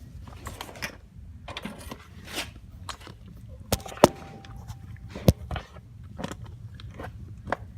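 Scattered clicks, scrapes and knocks of metal tools and parts being handled, with one sharp metallic clink about four seconds in that rings on briefly and another sharp click a second later.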